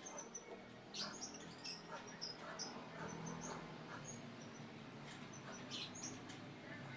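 Pet monkey's short, high-pitched squeaks and chirps, scattered irregularly, with a few light clicks.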